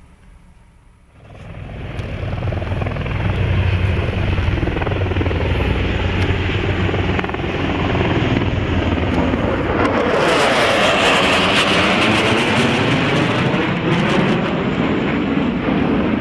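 Military aircraft flying past. Its engine noise swells in about a second in and grows loudest and brightest around ten seconds in, with a sweeping, phasing quality as it passes. It is still loud at the end.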